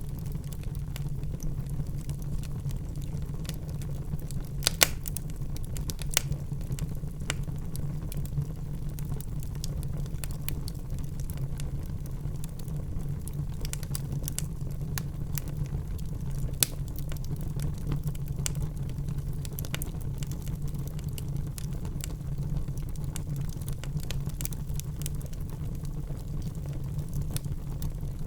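Wood fire burning in a fireplace: a steady low rumble under scattered crackles, with a few louder pops.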